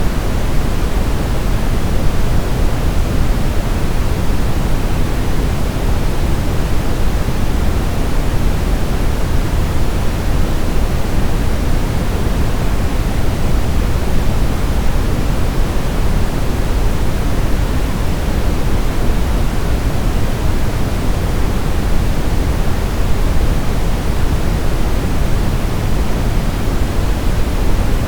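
Steady brown noise: a deep, even rushing hiss, strongest in the bass and fading toward the treble, unchanging throughout.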